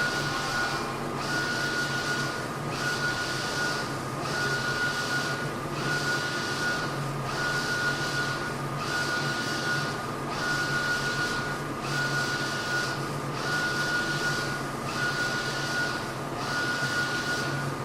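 Mutoh Blizzard wide-format printer printing at high speed: the print-head carriage sweeps back and forth with a whine and hiss, one pass about every second and a half, each with a brief pause at the turn, over a steady low hum.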